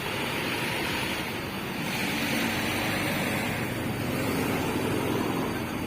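Steady roadside noise of vehicle engines running and traffic passing.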